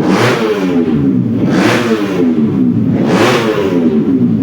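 Racing motorcycle engine revved up and down over and over, its pitch climbing and falling with a surge about every second and a half.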